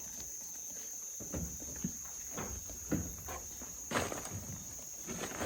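Goats' hooves stepping and knocking about on the ground, a scatter of light irregular knocks with a sharper one about four seconds in. A steady high insect note runs underneath.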